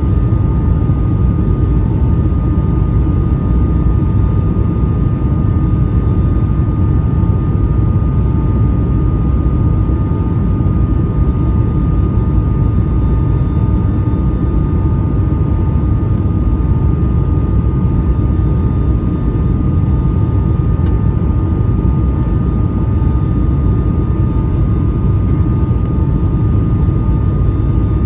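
Steady cabin noise inside a Boeing 757-200 airliner: a constant low rumble of engines and airflow with a steady whine running through it.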